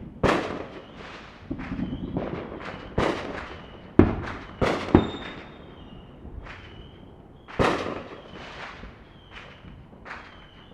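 Fireworks going off across a city, heard from a distance: a scatter of sharp bangs and smaller pops, the loudest about four and five seconds in and again near eight seconds. Each bang trails off in echo.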